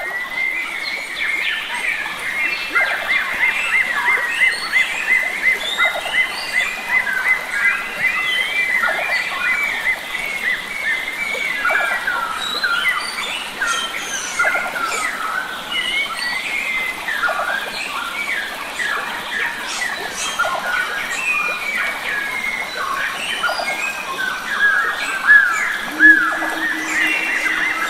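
A chorus of wild forest birds chirping and calling over the steady rush of a stream, with a high repeated note held through the first several seconds. A low steady drone comes in near the end.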